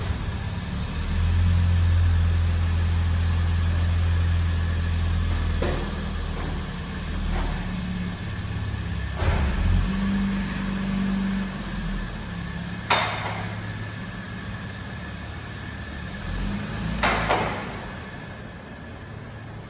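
A car engine running just after being started, idling and then driven off slowly, with a few sharp knocks along the way. The engine sound fades near the end.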